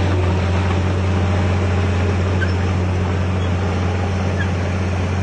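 Heavy diesel engine of earthmoving machinery running steadily, a constant low drone with no change in pitch or load.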